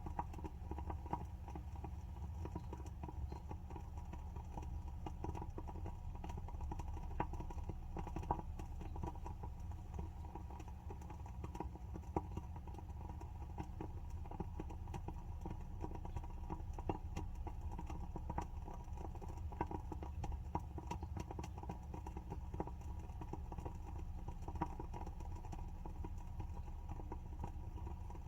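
WoodWick candle's wooden wick crackling as it burns: irregular small pops and ticks over a steady low hum.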